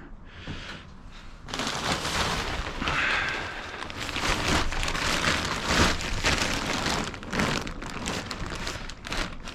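Rustling, scraping and light knocking of household items being shifted and packed into place in the truck's cargo box, starting about a second and a half in.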